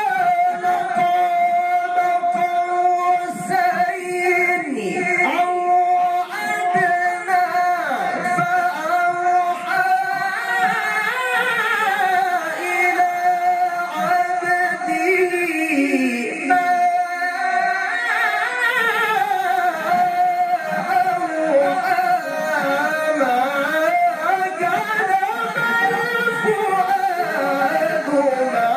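A male Quran reciter's voice in melodic tilawah. It holds one long high note steady for about ten seconds, then winds up and down through ornamented melodic runs.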